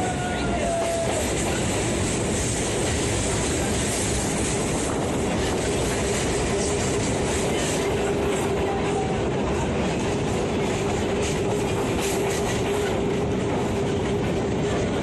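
EMU commuter train running on the rails, heard from inside the coach: a steady rush of wheel and track noise, with a steady whine setting in about three seconds in.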